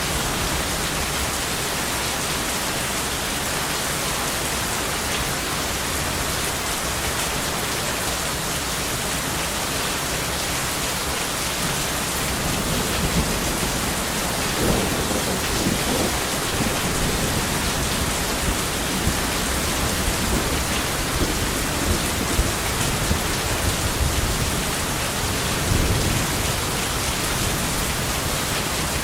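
Steady heavy rain with rolls of thunder, the low rumbles swelling about halfway through and again a few times near the end.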